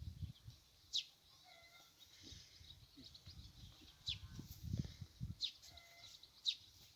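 Small birds calling: a few short, high chirps that fall in pitch, spaced about a second or more apart, with fainter whistled notes between them. A low rumble comes about two-thirds of the way in.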